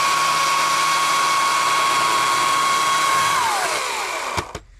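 EGO CS2005 20-inch battery chainsaw running at full power, its electric motor and chain giving a loud steady whine. After about three seconds the trigger is let go and the whine falls in pitch as the motor winds down, ending with a sharp click.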